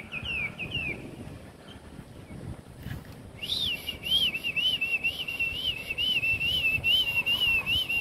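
Songbird calling: a few quick, falling whistled notes at the start, then after a pause of about two seconds one long whistled song that wavers up and down about two or three times a second.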